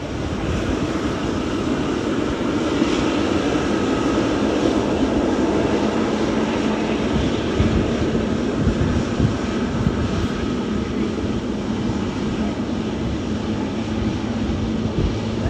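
Jet airliner's engines running loud and steady, a continuous rush with a faint high whine running through it.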